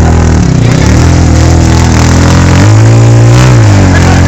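A loud, close engine revving up and down: its pitch dips early, climbs and holds about two-thirds of the way in, then falls again.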